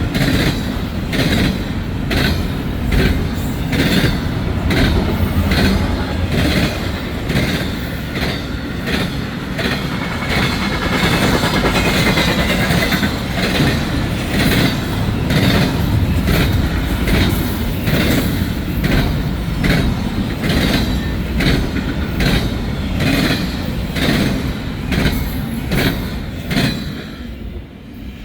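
Freight train's intermodal cars rolling past at speed, their wheels clicking over the rail joints in a steady rhythm of about two clicks a second. The sound falls away near the end as the train passes.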